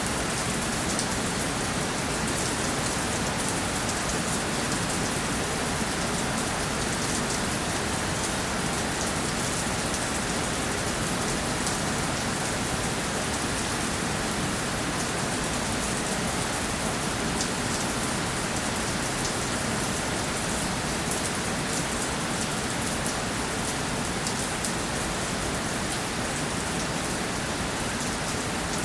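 Steady rainfall: an even hiss of rain falling on a surface, with many fine individual drop ticks.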